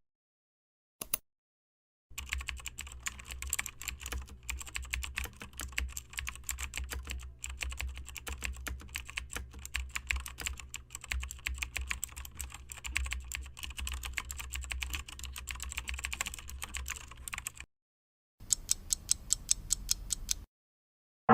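Computer keyboard typing: about fifteen seconds of fast, irregular key clicks. After a short pause comes a brief run of evenly spaced clicks.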